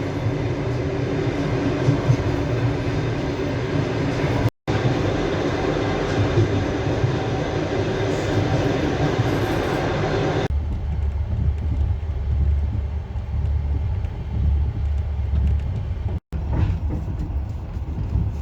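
Russian long-distance passenger train carriage running, a steady rumble and rattle heard from inside the carriage. The sound cuts out briefly twice and turns to a deeper hum about ten seconds in.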